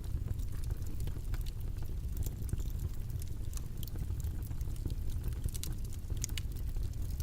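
Steady low-pitched rushing noise, like a white-noise background track, with scattered faint small clicks and taps over it.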